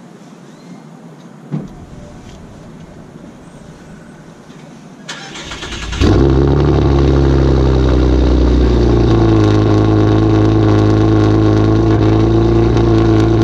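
Car engine cranked and started about five to six seconds in, then running loud and steady. A single short knock sounds near two seconds in over a quiet background.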